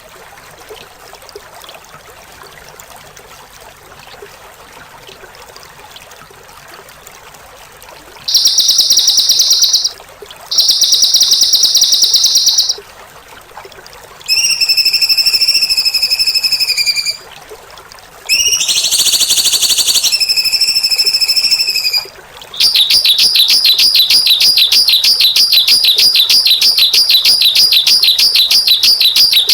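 Faint running-water sound, then loud, harsh, buzzy songbird calls of the kind bird-keepers call 'besetan', used as tutor recordings for caged birds. There are two rapid buzzing trills, two drawn-out rasping notes, and then a long, fast rattling trill near the end.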